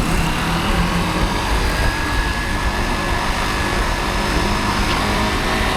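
Motorcycle running under way, with steady rumbling road and wind noise; a faint whine above it slowly rises in pitch.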